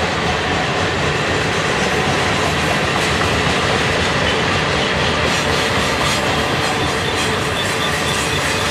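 Freight train of covered steel coil cars rolling past at close range: a steady rumble and clatter of steel wheels on the rails, with a faint high wheel squeal coming in about halfway through.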